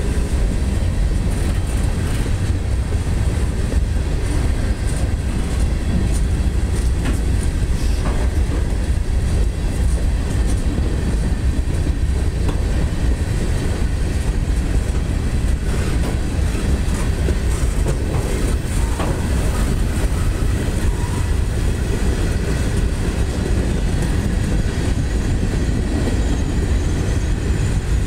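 Freight cars, covered hoppers and coil cars, rolling past on the rails: a steady low rumble of steel wheels on track, with scattered clicks.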